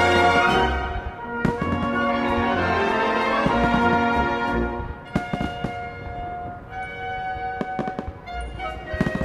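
Orchestral music with brass, over which fireworks bang and crackle: one burst about a second and a half in, then a cluster of bangs from about five to eight seconds in.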